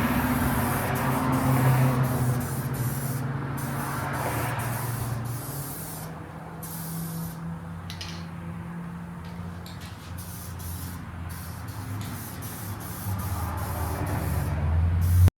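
Paint being sprayed in repeated passes: a hiss that stops and starts several times, over a steady low hum. Fresh paint is going onto the truck's bed side and tailgate.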